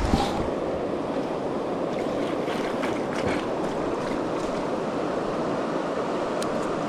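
Steady rush of a mountain river's flowing water over rocks, with a few low buffets of wind on the microphone at the very start.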